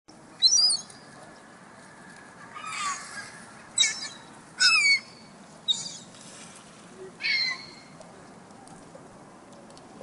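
Gulls calling: about six sharp, high cries, several sliding down in pitch, over a steady low hiss. The calls stop a couple of seconds before the end.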